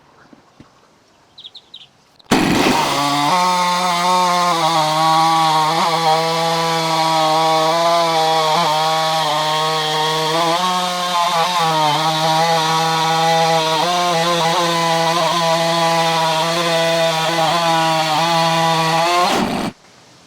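Stihl MS660 two-stroke chainsaw on a Norwood PortaMill chainsaw mill running at full throttle while ripping a slab from a log, its pitch holding high and wavering slightly under load. The sound starts abruptly about two seconds in and cuts off abruptly near the end.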